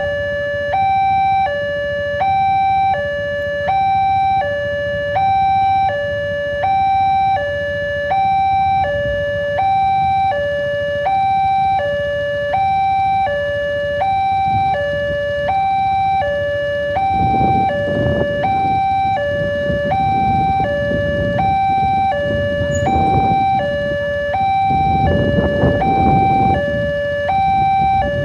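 Railway level-crossing warning alarm sounding continuously: an electronic two-tone signal alternating steadily between a higher and a lower tone, about one pair every 1.3 seconds, warning that a train is coming and the gate is closed. A low rumble swells under it twice, around 17 and 25 seconds in.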